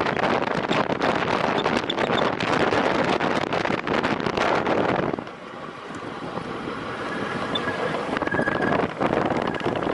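Wind rushing over the microphone of a road cyclist riding at time-trial speed. The noise drops abruptly about five seconds in, then builds back up.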